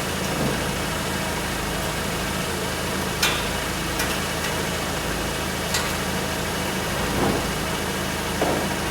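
A steady machine hum with several sharp metal knocks and clunks, a car body being set down onto a derby car's frame.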